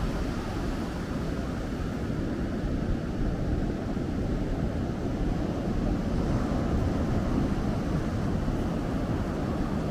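Ocean surf and wind on the microphone: a steady low rumble, a little louder after about six seconds.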